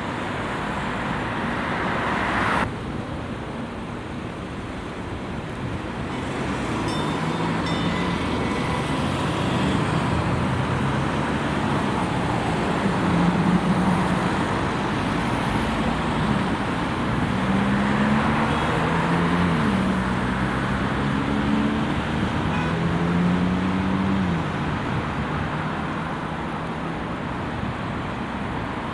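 Road traffic noise with a motor vehicle engine accelerating and changing gear several times, its pitch climbing and then dropping at each shift. The sound changes abruptly a few seconds in.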